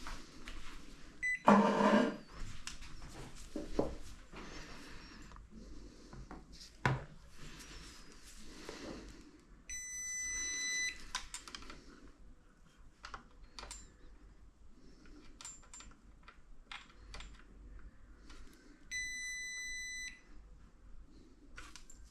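Two long electronic beeps, each lasting about a second and several seconds apart, among scattered light clicks and handling noises, with a brief loud pitched sound about two seconds in.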